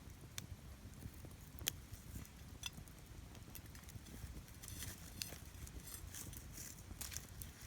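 Wood campfire crackling, with a few sharp single pops and a thicker run of crackling in the second half over a low rumble.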